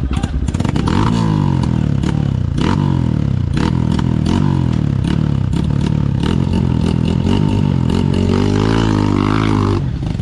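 Dirt bike engine revving hard, its pitch rising and falling again and again, with scattered knocks and clatter. The engine note drops away suddenly near the end.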